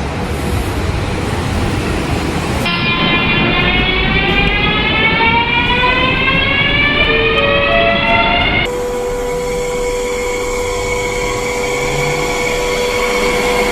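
Train running: a rumble, then, after an abrupt change, a whine of several tones that rises steadily in pitch for about six seconds, as an electric train's motors make when it accelerates. After another abrupt change comes a steady hum with one held tone.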